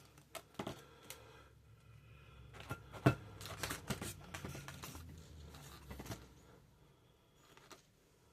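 Faint handling of latex twisting balloons: light rubbing and a brief squeak of the rubber, with scattered small clicks and one sharper click about three seconds in.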